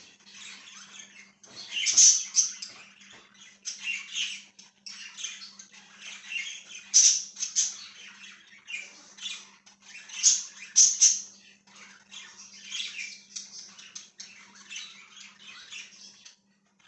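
Budgies (budgerigars) chirping and chattering continuously, with louder squawks about two, seven and eleven seconds in. A steady low hum runs underneath.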